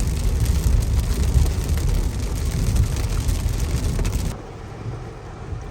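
Hard rain on a moving car, with the low rumble of road and engine noise under it. About four seconds in it cuts off abruptly to a quieter, duller steady hum.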